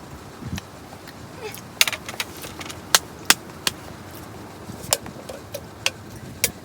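Irregular sharp clicks and clatters of small hard objects being handled, about seven or eight knocks spread unevenly over several seconds.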